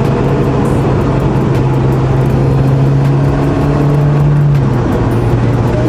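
Honda Integra Type R DC5's K20 four-cylinder engine running steadily under way at mid revs, its pitch creeping up slightly and then dropping a little near the end.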